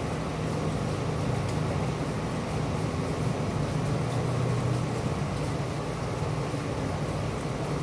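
Steady rain with a constant low rumble underneath and faint scattered ticks of drops.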